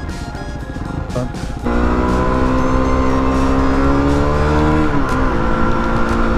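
Yamaha WR250R's single-cylinder engine running at steady revs, getting suddenly louder a little under two seconds in and easing off about five seconds in, with music playing alongside.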